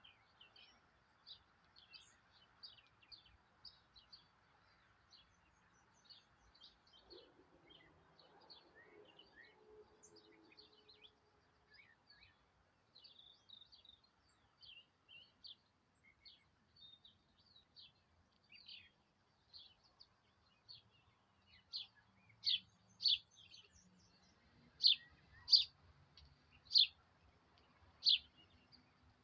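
A bird giving short, high chirps over and over, a couple a second, faint at first and much louder in the last several seconds.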